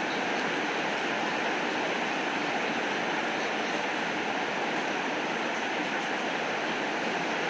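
Steady rainfall: an even, unbroken hiss with faint scattered ticks.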